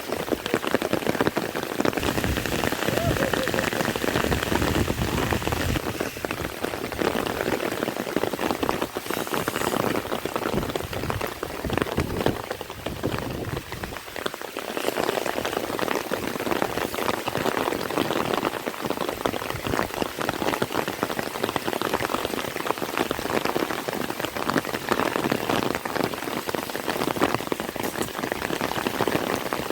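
Heavy rain falling steadily, a dense patter of drops on surfaces, easing briefly about halfway through.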